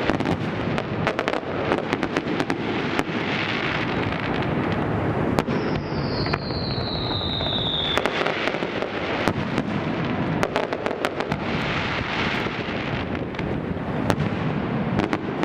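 Aerial fireworks display: a dense, unbroken run of bangs and crackling bursts. A long falling whistle runs through the middle.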